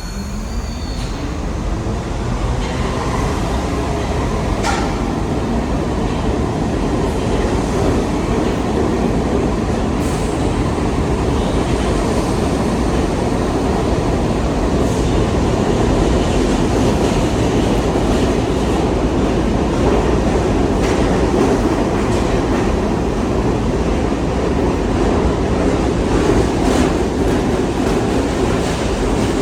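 R68 subway train pulling out of a station: its motor whine rises in pitch over the first few seconds as it accelerates, then a loud, steady rumble with rail clatter as the cars pass, growing louder toward the middle.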